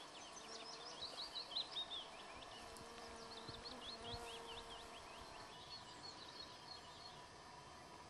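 Songbird singing: three phrases of quick, falling high notes over a faint steady background hiss.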